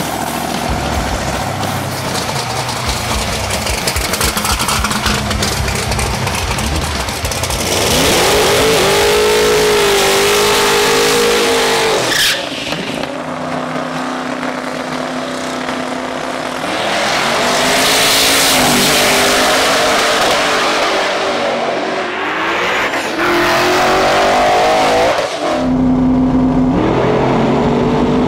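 Twin-turbo big-block Chevy V8s of '57 Chevy drag cars accelerating hard, engine pitch climbing through the gears in several separate pulls with abrupt breaks between them.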